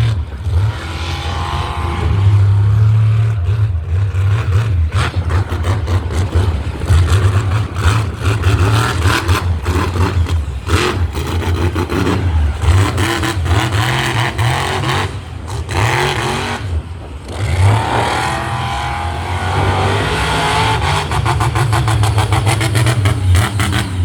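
Monster truck engine running loudly and revving again and again, with a deep low sound and a crackly edge.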